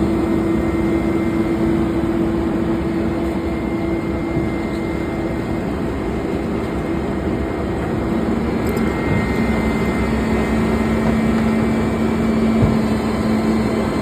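Garbage truck's engine and hydraulic compactor running, a steady mechanical din with a held whine that drops to a lower pitch about eight seconds in.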